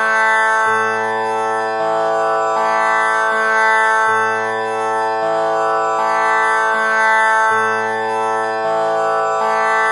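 Tanpura drone tuned to A (6 kattai): its strings are plucked one after another in an unbroken cycle that repeats about every three and a half seconds, each string ringing on under the next.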